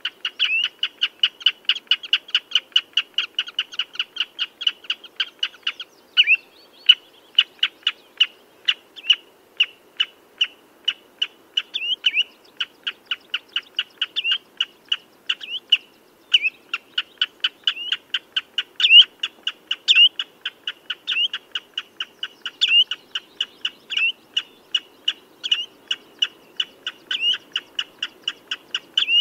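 Common redshank calling: a long, rapid run of sharp piping notes, several a second, with louder slurred notes standing out every second or so.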